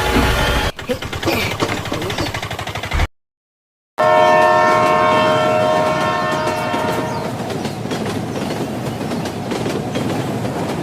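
Train running on the rails with a steady rumble and clatter. A train horn sounds a chord of several steady notes for about three seconds, starting after a one-second break of complete silence. Another horn note ends about a second in.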